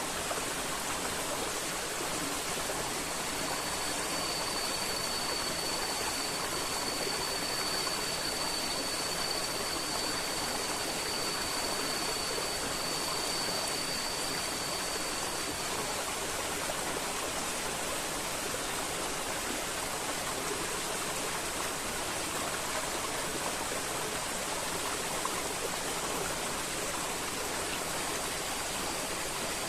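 River water flowing steadily. A thin, steady high tone sounds over it from about three seconds in to about halfway through, and comes back near the end.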